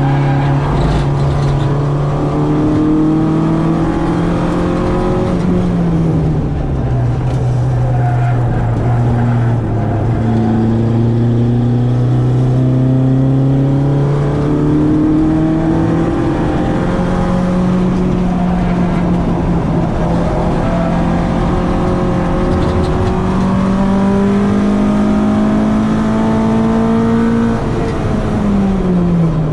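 Citroën AX's 8-valve four-cylinder engine on twin Weber 40 carburettors, driven hard on track: revs climb slowly under load and drop sharply at a gear change about six seconds in and again near the end.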